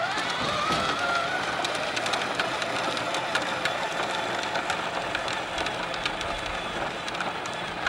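Battery-powered toy monster truck's small electric motor starting up: a whine that rises in pitch over the first second or so, then settles into a steady whirr with rapid clicking from the gears.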